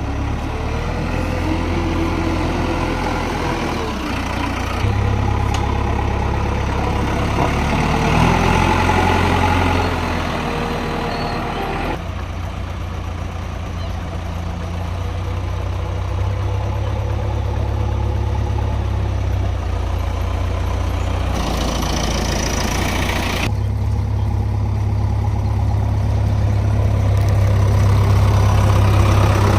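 Heavy diesel engines of a backhoe loader and farm tractors running, a deep steady engine note. The sound shifts abruptly several times.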